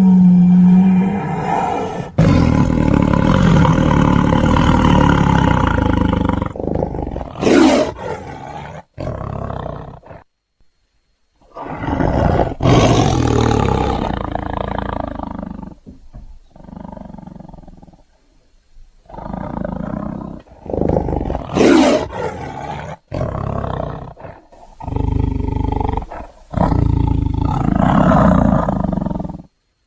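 Custom honey badger creature sound effects: a string of separate roars and growls, each stopping abruptly, with short silences between them.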